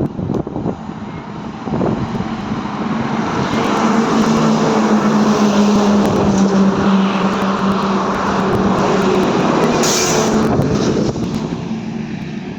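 TVS Apache RTR 200 4V motorcycle riding at speed: steady engine drone under loud wind rush. It builds over the first couple of seconds and eases off near the end.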